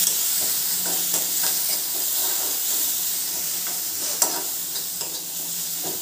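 Green chilli paste and tempering spices sizzling in hot oil in a wok, stirred with a steel spoon that scrapes and clicks against the pan, with one sharper tap about four seconds in. The sizzle fades slowly as the paste fries.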